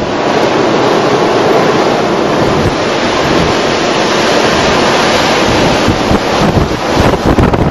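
Blizzard wind blowing hard in a continuous rushing hiss, with gusts buffeting the microphone in low rumbles near the start and again toward the end.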